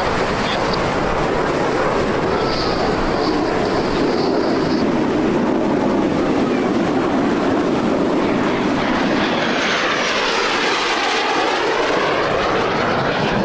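Aermacchi MB-339 jet trainers of the Frecce Tricolori flying a display, with a continuous, loud jet roar. From about two-thirds of the way in, a sweeping, phasing whoosh marks a jet passing close by.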